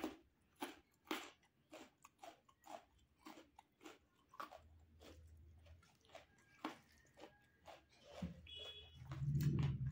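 Close-miked mouth sounds of a man chewing a mouthful of rice with dal and potato bhujiya: irregular wet smacks and clicks, a few a second, with a low hum near the end.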